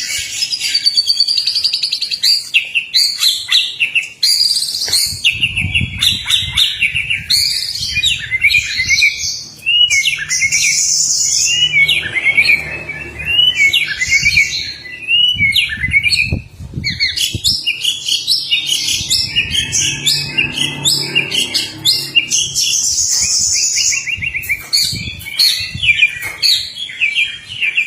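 Male white-rumped shama singing a loud, continuous, varied run of whistles, chirps and fast trills, courting a female.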